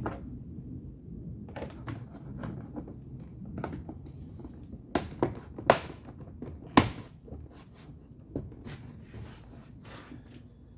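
Hand work on a pickup's door trim and handle parts: scattered clicks and knocks, with a few sharp thunks about five to seven seconds in and one more near eight seconds.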